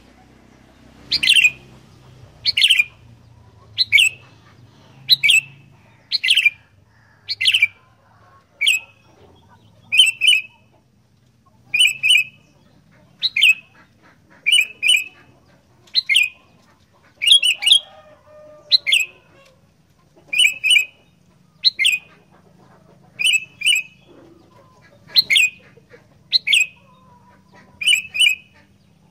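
Sooty-headed bulbul (kutilang) calling over and over: short, sharp calls about one every second, some given in quick pairs.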